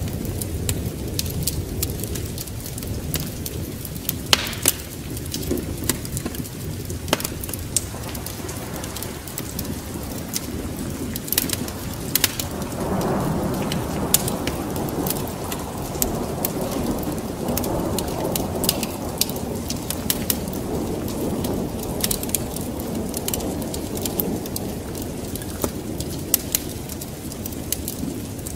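Steady rain with a wood fire crackling in sharp snaps throughout, and a low roll of thunder that swells about thirteen seconds in and dies away over the next ten seconds or so.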